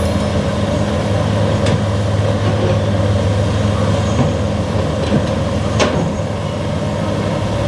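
Heavy diesel engine running steadily, with two sharp knocks, the first under two seconds in and the second near six seconds.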